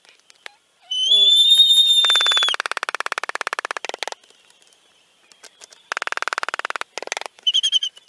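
A songbird singing a courtship song to attract a mate. A clear whistled note, held for about a second and a half, runs into a fast rattling trill. A second trill follows, then a few short whistled notes near the end.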